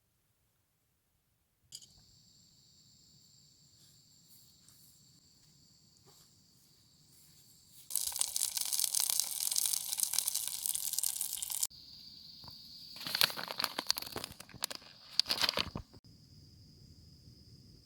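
Insects trilling steadily in the background, joined by a loud rushing hiss for about four seconds that cuts off sharply, then a few seconds of loud crunching and rustling.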